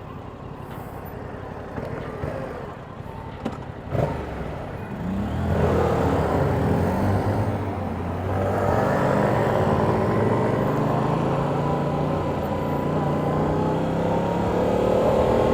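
Motorcycle engine that pulls away about five seconds in, rising in pitch as it accelerates, then runs loud and steady under load with wind noise, with a short dip in level about eight seconds in. Before it picks up, a quieter engine and road noise with a single click near four seconds.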